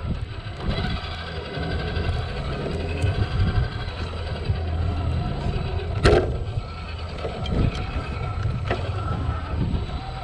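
Traxxas TRX-4 RC crawler's electric motor and geared drivetrain whining steadily as it crawls over rocks, with one sharp knock about six seconds in.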